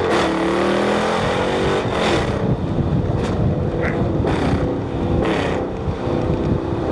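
Car engine running, its revs rising and falling in the first second or so, with several short rushes of noise over it.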